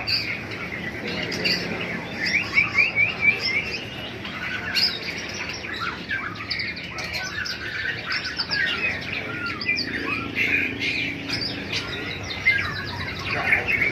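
Many caged songbirds chirping and calling at once, a dense chorus of short overlapping tweets, loudest in a burst about two to three seconds in.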